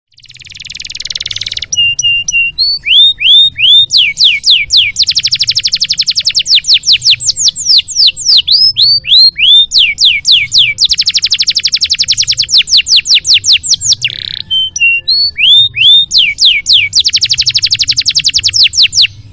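Domestic canary singing a long, loud song: runs of repeated downward-sweeping whistled notes alternating with long, very fast rattling trills. It starts and stops abruptly.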